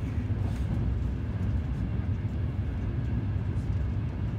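Cabin noise inside a moving Frecciarossa high-speed train: a steady low rumble.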